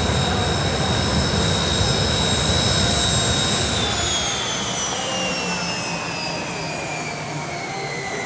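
Kawasaki T-4 jet engines whining steadily at idle over a low rumble. About four seconds in the rumble drops away and the whine slides steadily down in pitch: the engines spooling down at shutdown.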